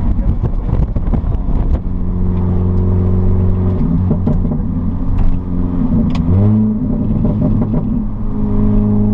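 Supercharged 1.6-litre four-cylinder engine of an R53 Mini Cooper S running through a straight pipe with the muffler deleted, while the car cruises. The engine note holds steady, shifts pitch about four seconds in, and rises about two-thirds of the way through.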